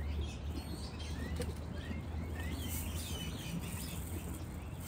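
Outdoor ambience: small birds chirping in short, scattered calls over a low steady rumble that fades about halfway through.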